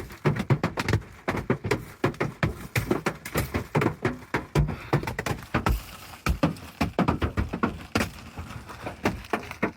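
Hailstones from a damaging hailstorm striking hard surfaces: a dense, irregular pelting of sharp knocks and thuds, several a second.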